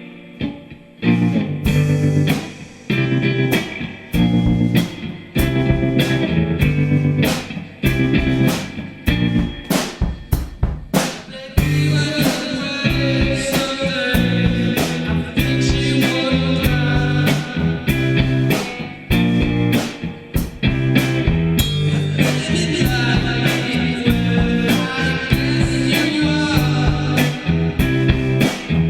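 Rock band music: drum kit, bass and electric guitar playing a steady beat. The band drops out briefly at the start and comes back in about a second in.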